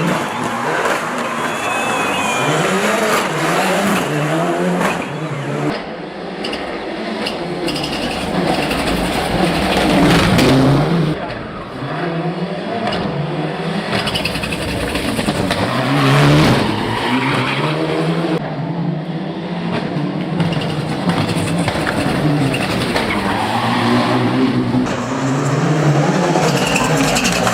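Mitsubishi Lancer Evolution VI race car's turbocharged four-cylinder engine run hard, its pitch climbing again and again and dropping back as it accelerates, shifts and lifts for corners.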